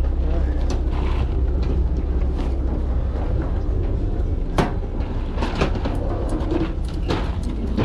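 A steady low rumble with several sharp knocks and clatters on top, the loudest about four and a half, five and a half and seven seconds in.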